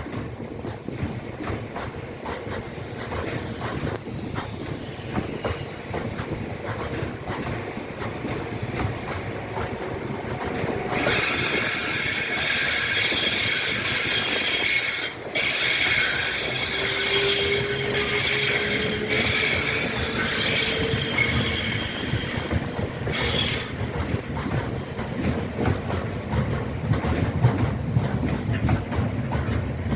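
A rake of stone wagons rolling past with wheels clattering over rail joints. About a third of the way in, the wheel flanges start a loud, high-pitched squeal against the rails, with a brief break, and it stops a little over two-thirds of the way through.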